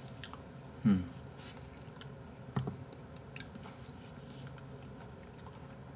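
Quiet eating sounds: a person chewing a mouthful of porridge, with a few small clicks and a short murmur about a second in.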